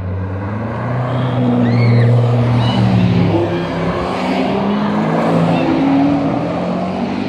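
Rally cars, among them a BMW coupe, driving past one after another, their engines revving up and easing off as they go by. The engines are loudest about two seconds in.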